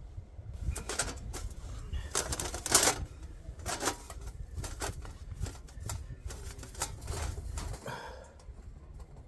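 Wood campfire crackling and popping in irregular sharp clicks, with a louder, denser run of crackles a little under three seconds in, over a steady low rumble.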